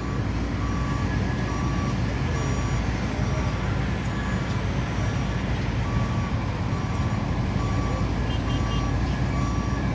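A construction vehicle's reversing alarm beeping steadily, about one beep every three quarters of a second, over the low rumble of a running engine. Near the end there is a brief quick triple chirp higher in pitch.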